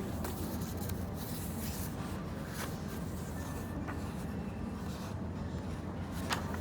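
Pen scratching on paper in a few short strokes, over the steady hum of a café.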